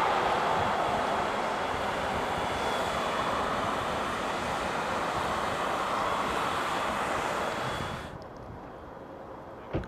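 Aircraft engine noise: a steady, loud rush with a faint high whine that cuts off abruptly about eight seconds in, leaving a quieter background. A short knock comes near the end.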